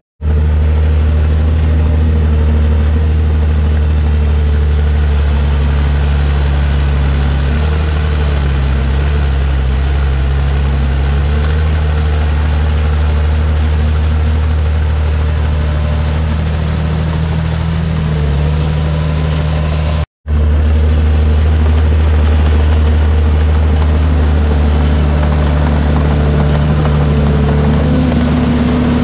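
Diesel engine of a Komatsu D51PX bulldozer running steadily at working revs, its deep note dipping and rising slightly a few times. The sound cuts out for an instant twice, at the start and about two-thirds of the way in.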